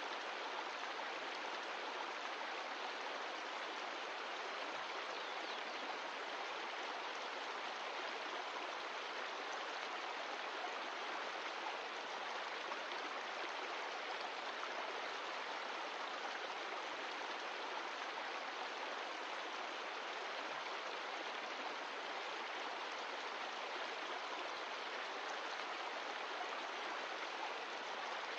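Mountain stream of glacial meltwater rushing steadily over rocks, an even unbroken water noise.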